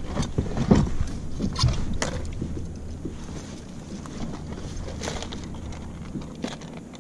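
Scattered clicks and knocks of fishing tackle and gear being handled aboard a kayak, densest in the first two seconds and thinning out after, over a low steady rumble.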